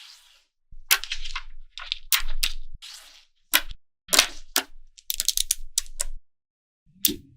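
Small magnetic balls clicking and snapping together as they are handled and built up, with sharp single clicks and quick rattling runs of clicks between short pauses.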